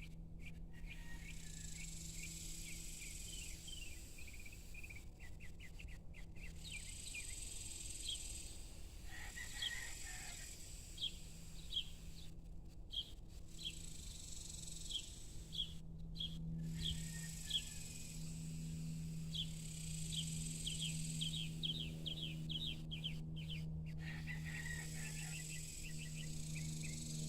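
Evening outdoor ambience: a bird giving repeated short chirps, sometimes in quick runs, while a high insect buzz comes and goes in stretches of a few seconds. Underneath runs a steady low hum that gets stronger in the second half.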